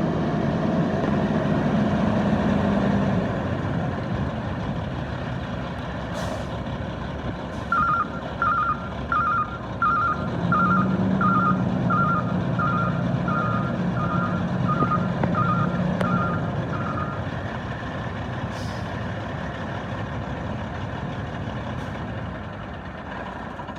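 Heavy diesel truck engine running, with a backup alarm beeping steadily about once every 0.7 s for around nine seconds in the middle. A few short, sharp hisses of air are also heard.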